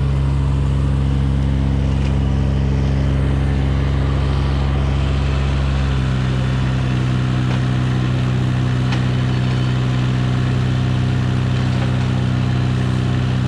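Engine running steadily; its deepest hum drops away about six seconds in while the higher tones carry on unchanged.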